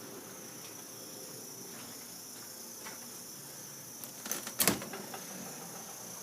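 A fridge door being pulled open: a quick cluster of clicks and a knock about four and a half seconds in. Insects chirr steadily and faintly throughout.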